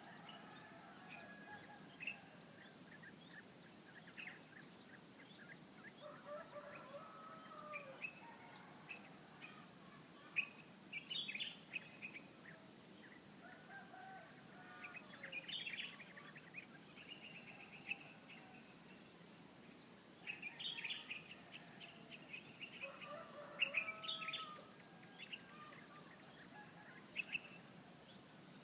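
Small birds chirping in short clustered bursts, with roosters and chickens calling now and then, over a steady high-pitched hiss.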